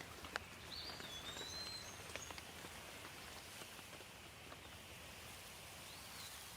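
Steady light rain falling, with individual drops ticking sharply in the first couple of seconds. A bird gives a short whistled call about a second in and another near the end.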